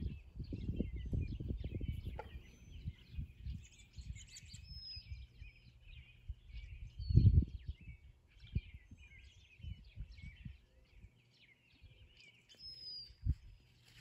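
Many wild birds chirping and calling at once, short overlapping calls throughout. Gusts of wind rumble on the microphone, heaviest in the first few seconds and again about seven seconds in.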